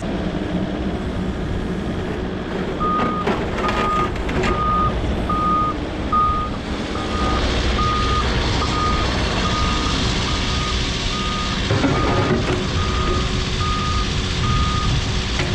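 Volvo EC60E mini excavator's diesel engine running while its travel alarm beeps about twice a second, starting a few seconds in and stopping near the end, as the machine tracks onto a truck bed. A few knocks and clanks sound around the beeping's start and again later.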